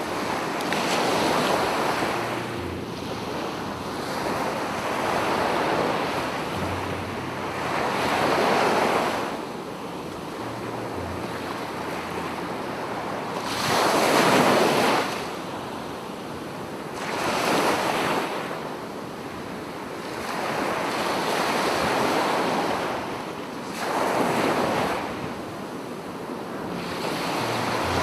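Sea waves breaking and washing up on a beach, the surf swelling and fading every three to four seconds.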